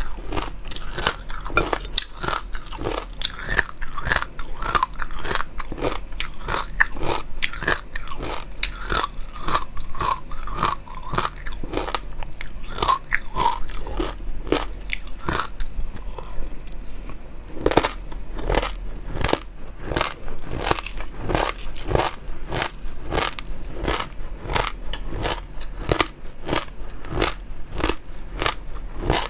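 Close-miked chewing and crunching of food: a steady stream of quick crackly clicks, with wetter mouth sounds in the first half and crisper, denser crunching later on.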